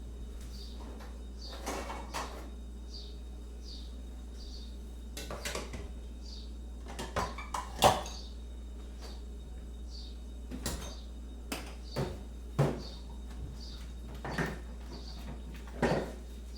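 Kitchen clatter: scattered clinks and knocks of crockery and cutlery being handled, about a dozen in all, the loudest about eight seconds in. Faint high bird chirps repeat in the background over a steady low hum.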